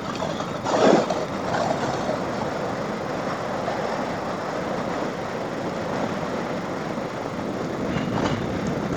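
Riding noise from a KTM 890 Adventure R on a wet road in wind: its parallel-twin engine running under a steady rush of wind and tyre noise. A brief louder gust of noise comes about a second in.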